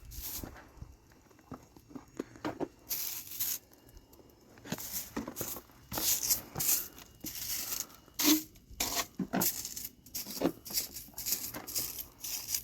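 Irregular rustling and crunching: a run of short scrapes and crackles at uneven intervals, busier in the second half.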